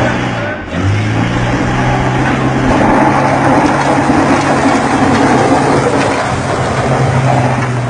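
BMW saloon and heavy truck engines held at high revs, straining against each other under load in a rope tug-of-war, with the car's tyres spinning on gravelly dirt. The drone dips briefly about half a second in, then holds steady.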